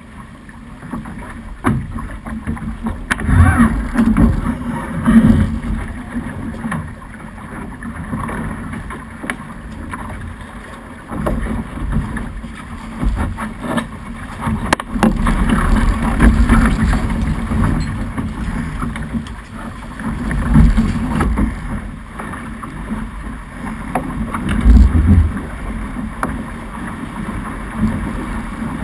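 Snipe racing dinghy under sail in a fresh breeze: water rushing along the hull and wind buffeting the microphone, with heavy gusty surges every few seconds.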